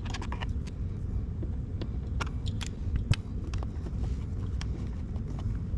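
Scattered small clicks and taps of a screwdriver backing a Phillips screw out of a plastic dash trim panel, with one sharper click about three seconds in, over a steady low rumble.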